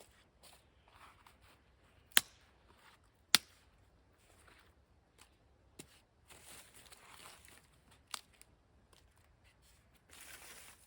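Handling noises: two sharp clicks or knocks about a second apart, then a few fainter clicks and stretches of soft rustling.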